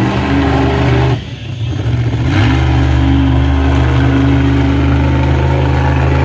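Monster truck engine running hard at high revs. About a second in it drops away briefly as the throttle comes off, then revs back up and holds a steady high note.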